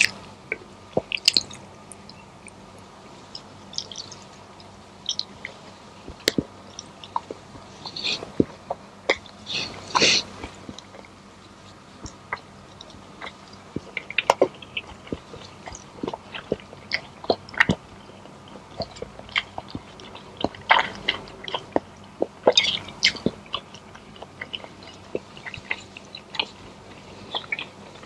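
A person chewing and eating pancit canton noodles, a fried egg and chicken nuggets, with scattered short mouth smacks and small clicks.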